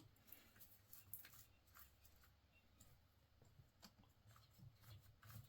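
Near silence with a few faint, scattered clicks of hand-tool work on the carburetor's intake boot clamp.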